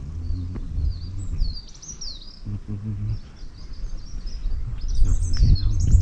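Small birds chirping and calling: many short, high notes that swoop up and down, growing busier near the end. A low, uneven rumble runs underneath.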